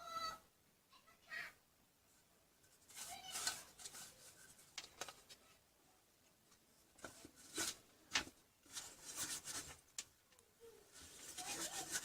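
A brief pitched call at the very start, then scattered clicks, knocks and rubbing noises of something being handled, growing busier near the end.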